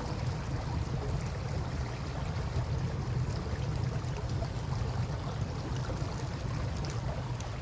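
Steady rush of river water with a low rumble underneath, and faint scattered crackles from a wood campfire, a couple of sharper pops near the end.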